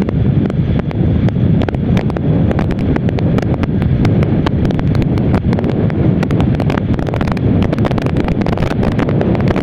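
Wind buffeting the microphone of a motorcycle riding at highway speed, over a steady low rumble of engine and road noise, with frequent small crackles that grow busier in the second half.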